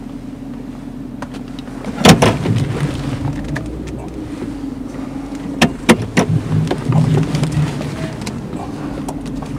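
Dodge police cruiser's engine idling, a steady low hum heard inside the cabin, with a loud knock about two seconds in and a few sharp clicks around six seconds in as hands work the dashboard controls.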